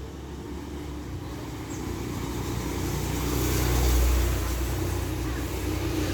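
A motor vehicle going by: engine noise that swells to its loudest about four seconds in, then eases off a little.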